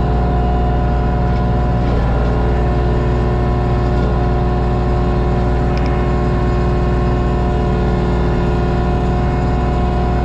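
LS MT232 tractor's three-cylinder diesel engine running steadily under load while reversing up a hill, with the brush hog's driveline turning behind it and a steady whine over the engine note.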